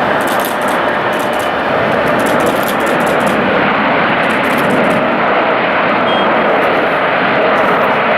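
Jet airliner's engines, loud and steady, with a faint steady whine under a broad rush of noise and short crackles in the high end.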